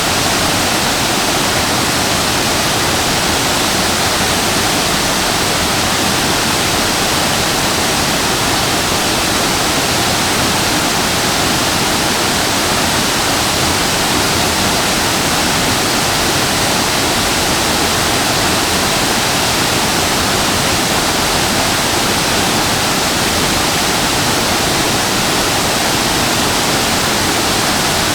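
Shasui Falls waterfall: falling water making a steady, even rush that does not change.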